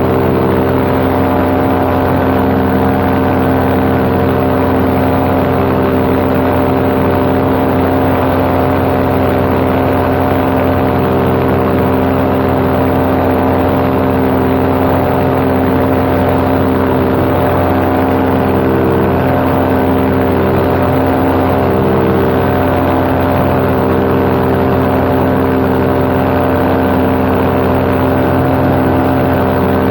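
Paramotor's two-stroke engine and propeller running steadily at cruise power, heard from the pilot's seat with wind noise on the microphone.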